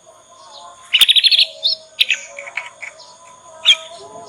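Young canary practising its song. A rapid chattering trill comes about a second in, followed by scattered short chirps and one sharp note near the end.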